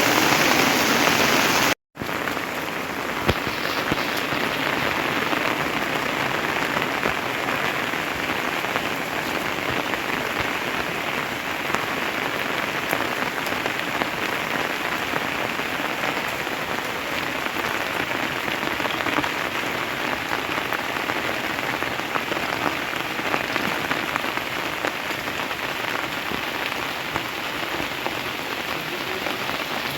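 Steady rainfall, an even hiss of rain with many small drop ticks in it. The sound cuts out for an instant just before two seconds in, then carries on evenly.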